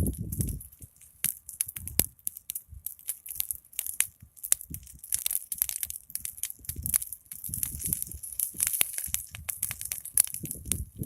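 Large wood fire crackling, with many irregular sharp pops and snaps over a steady high hiss, and now and then a low rush of flame.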